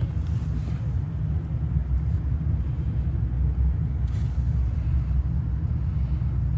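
Steady low rumble of cars running nearby, with a couple of brief faint hissy swells, about a second in and again around four seconds.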